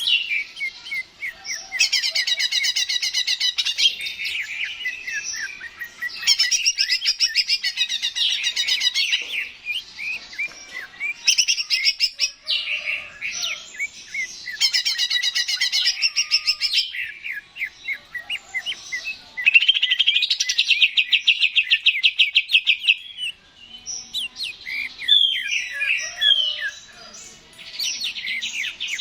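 Cucak ijo (green leafbird) singing: long, high-pitched phrases of rapid repeated trilled notes, one after another with short breaks between them.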